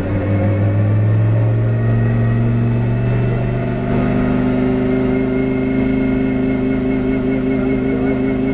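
Lamborghini Huracán GT race car's 5.2-litre V10 running steadily with little change in pitch, with a small step in pitch about four seconds in.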